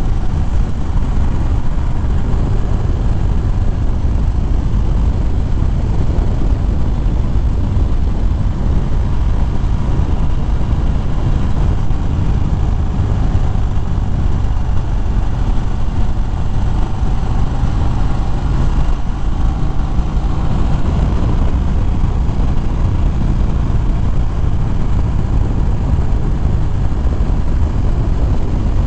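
Steady wind rush on the microphone while riding, with the 2013 Harley-Davidson Fat Bob's V-twin engine running underneath.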